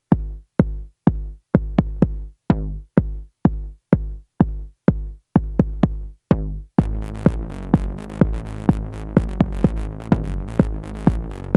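Acid techno: evenly spaced hits, each with a decaying pitched synth note, about twice a second, some notes sweeping downward. About seven seconds in, a fuller beat with a steady bass and high hats comes in.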